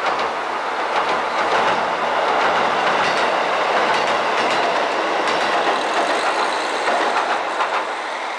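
Two-car KiHa 40 diesel railcar train rolling across a steel girder bridge: a steady rumble of wheels on rail, with repeated clicks over the rail joints.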